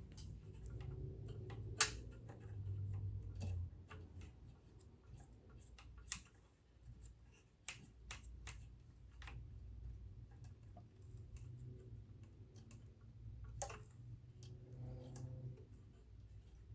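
Scattered small clicks and taps of tools and metal parts being handled on a vintage sewing machine during cleaning, with two sharper clicks, one about two seconds in and one near the end, over a low steady hum.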